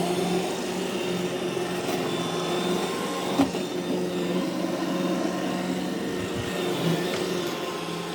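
iRobot Roomba e5 robot vacuum running, a steady motor hum with its brushes and suction, and one sharp knock about three and a half seconds in.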